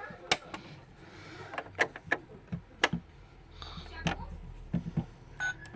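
Asda BAE51002A+ washing machine being handled: a string of sharp clicks and knocks, then a short electronic beep near the end.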